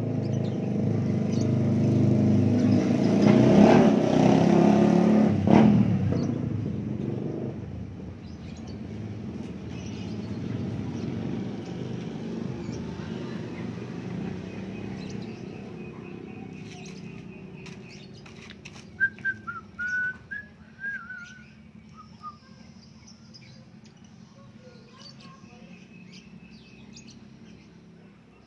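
A vehicle passing, loudest about four seconds in and fading away by about eight seconds. Around twenty seconds in come a few short bird chirps.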